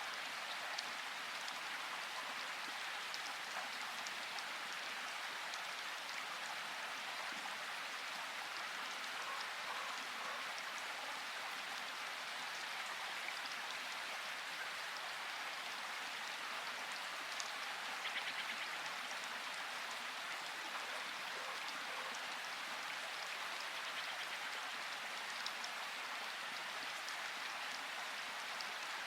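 Steady rain falling, an even hiss with scattered sharper drop ticks and a brief louder flurry of drops a little past halfway.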